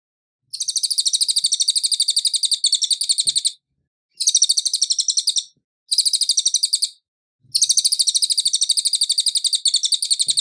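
Cililin songbird singing fast, high chattering phrases of rapidly repeated notes, about a dozen a second, in four bursts with short pauses between them. The recording is clean, with no background noise.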